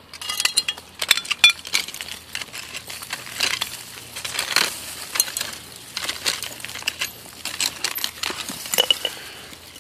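Broken glass and old dump debris clinking and knocking irregularly as it is dug through, with many sharp glassy clinks, some briefly ringing.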